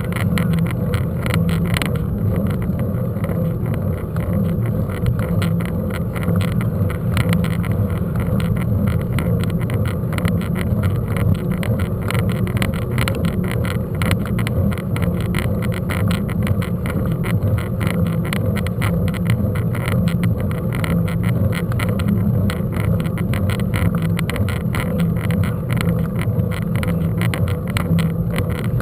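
Steady rumble and rapid rattling from riding a mountain bike over rough ground, the camera's mount shaking with the bike.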